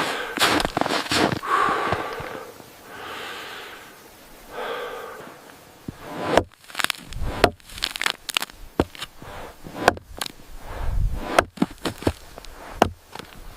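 Irregular sharp cracks and snaps, thick from about six seconds in, after a few seconds of softer rustling with short pitched sounds.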